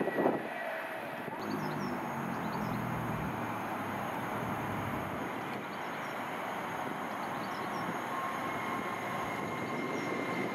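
Train running on the line: a steady rushing rumble of wheels on rail, with a low hum for the first few seconds and a few faint bird chirps above it.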